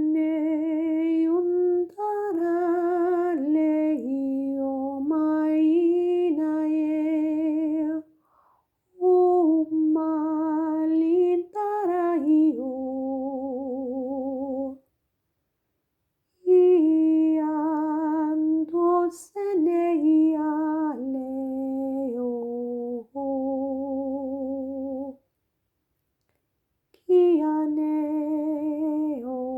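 A woman humming a slow, wordless melody, holding each note with a wavering vibrato, in phrases of several seconds with short pauses for breath between them.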